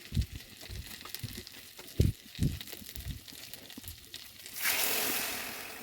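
A few dull knocks of cooking utensils, then a sudden loud hiss of sizzling in hot oil that fades away over about a second, as something goes into the pan.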